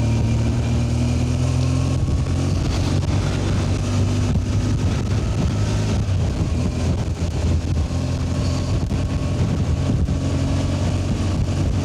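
BMW R 1200 GS motorcycle's boxer-twin engine running steadily on the move, with wind noise over it.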